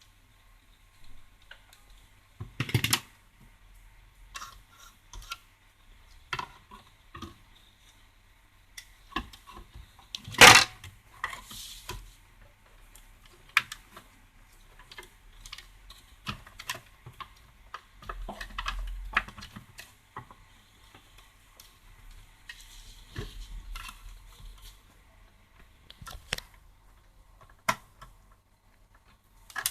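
Irregular clicks, taps and knocks of small plastic and metal parts being handled while a cassette recorder's mechanism is worked on, with one much louder knock about ten seconds in and a low thump a little before twenty seconds.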